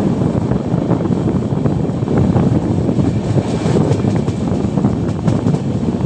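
Wind buffeting the microphone: a loud, uneven rumble with brief gusts.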